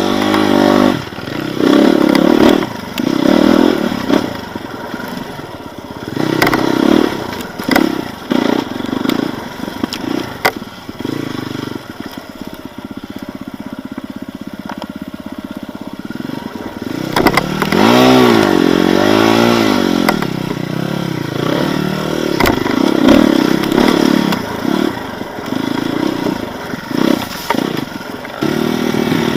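Off-road motorcycle engine revving up and down unevenly while riding slowly over rough ground, with scattered clatter and scraping. About two-thirds of the way through, the revs waver quickly up and down.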